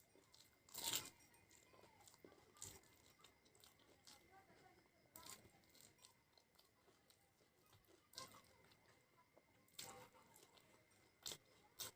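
A person chewing and biting fried snacks close to the microphone: soft chewing with a few separate crunches, the loudest about a second in.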